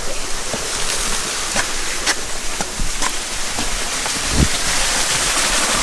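Waterfall pouring down, a steady rushing hiss of falling and splashing water.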